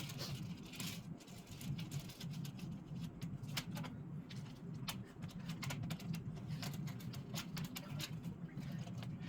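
MIG welding wire being wound from spool to spool on a wooden jig: many irregular sharp clicks and ticks over a steady low hum.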